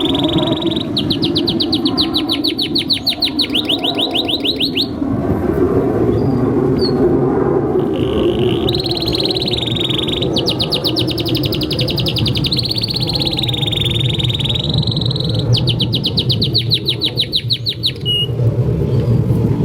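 Male canary singing in full song: long rolling trills alternate with fast runs of rapidly repeated notes, with a pause of a few seconds in the middle. A steady low background noise runs underneath.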